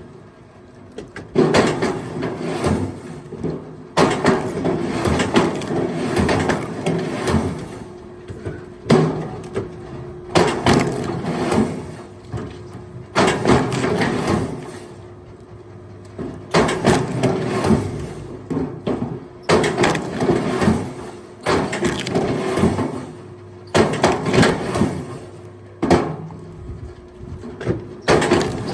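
Pieces of firewood clattering and knocking together as they are thrown onto a pile, in repeated bursts every second or few, over a steady motor hum.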